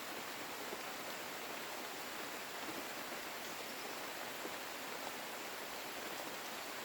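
Steady hiss of falling rain, even throughout, with a few faint drop ticks.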